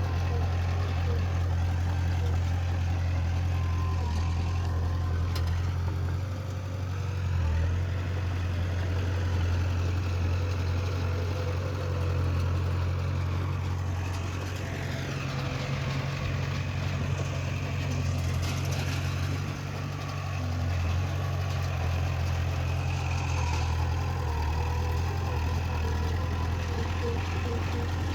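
Heavy diesel earthmoving machine engine running steadily with a deep drone, its level dipping briefly about six seconds in and again near twenty seconds.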